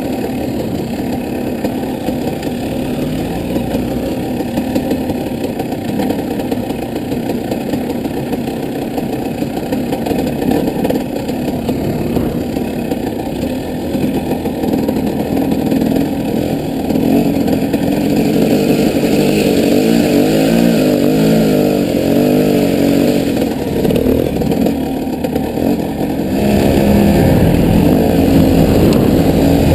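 Off-road vehicle engine running on a trail ride, its revs rising and falling. It gets louder through the second half, with the engine pitch sweeping up and down several times near the end.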